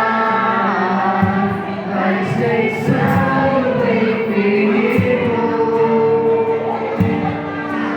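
Sung Christian devotional music: a choir of voices singing a hymn over instrumental accompaniment.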